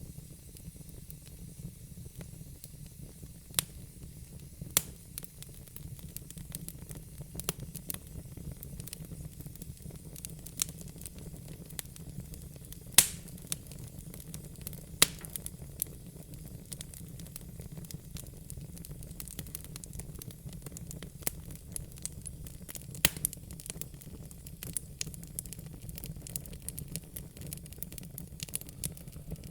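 Wood fire crackling, with irregular sharp pops from the burning logs, the loudest about halfway through, over a steady low rumble.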